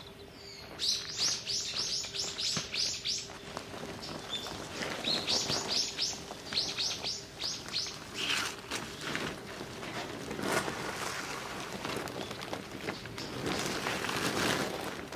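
A small bird calling in two quick runs of high, falling chirps, about nine notes each, in the first half; a rough rustling noise takes over in the second half.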